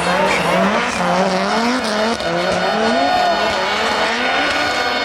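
Rally car engine revving hard, its pitch swinging up and down in quick repeated surges.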